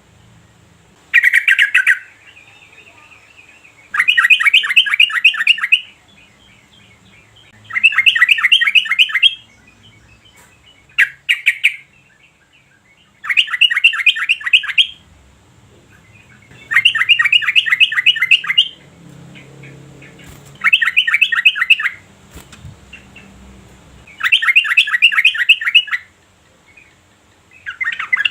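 Yellow-vented bulbul singing in repeated bursts of rapid, bubbly chattering notes, each phrase one to two seconds long, with gaps of a couple of seconds between phrases.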